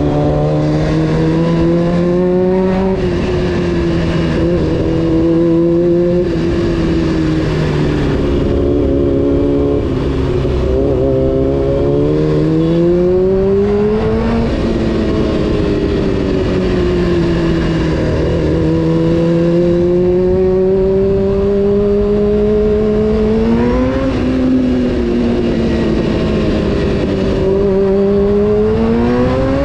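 Honda CBR600 F4's inline-four engine under way on a ride. The revs climb and then drop sharply about three seconds in, around fourteen seconds and around twenty-four seconds, then climb again near the end.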